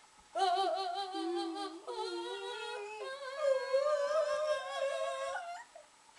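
Voices humming long, wavering notes, several pitches sounding together, changing note a few times and stopping shortly before the end.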